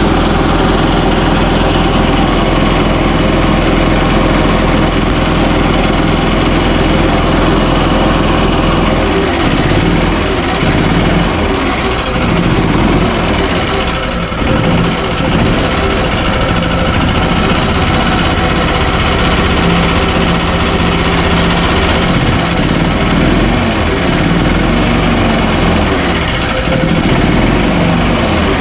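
Yamaha G29 golf cart's single-cylinder four-stroke gas engine running just after a tune-up (new spark plug, air filter, fuel filter and oil). It runs steadily at first; from about nine seconds in its speed rises and falls.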